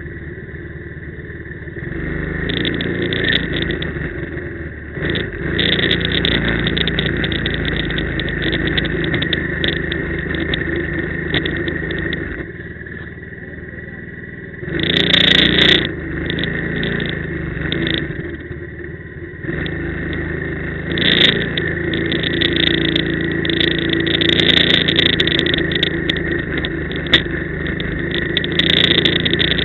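Quad bike (ATV) engine under way, the throttle opened and eased off again and again: it falls back to a low level a few times and swells with louder bursts of throttle in between.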